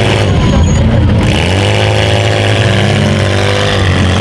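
Small-car engines revving in a demolition derby heat, the pitch climbing about a second in, holding, then dropping near the end.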